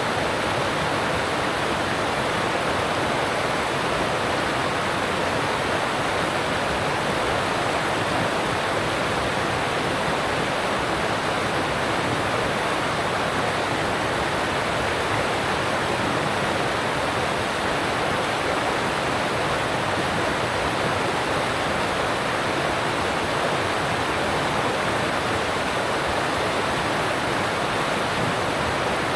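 Alpine stream's water rushing over rocks in a steady, unbroken rush.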